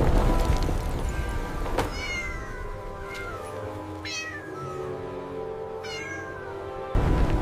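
Kitten meows, three or four separate calls each falling in pitch, over soft background music. A loud low rumble of storm noise fades out in the first second and cuts back in suddenly near the end.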